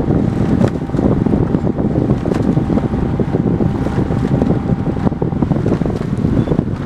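Wind buffeting the microphone, a loud, ragged low rumble that flutters constantly.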